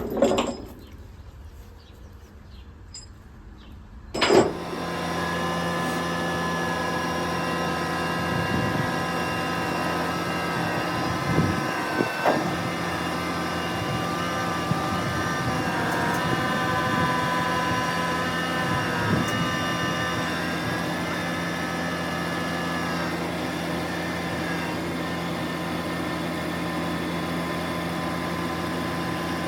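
An engine starts about four seconds in and then runs steadily at idle.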